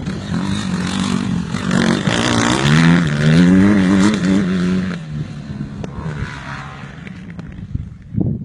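Motocross bike engine revving hard, its pitch climbing and wavering as it accelerates. It is loudest about three to four seconds in, then drops away and fades.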